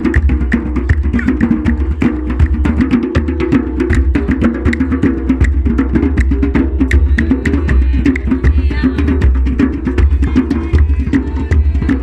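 Hand drums played in a fast, driving traditional Moroccan rhythm, with voices singing in places, mostly around two-thirds of the way through.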